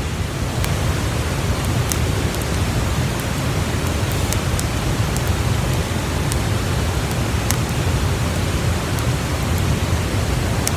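Steady rushing noise with a strong low end, like running water or wind, with scattered sharp crackles and pops from a wood campfire.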